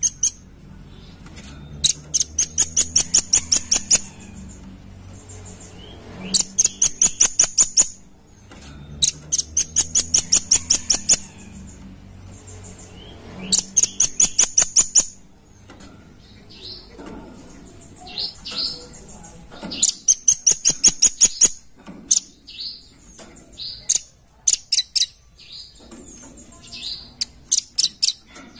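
Velvet-fronted nuthatch (red-billed nuthatch) calling: bursts of rapid, sharp, high-pitched notes, about five a second and lasting a couple of seconds each, repeated every few seconds, with scattered single chips between the bursts.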